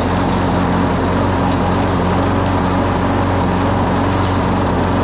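Gray walk-behind lawn mower's small gas engine running steadily, having just been primed and started.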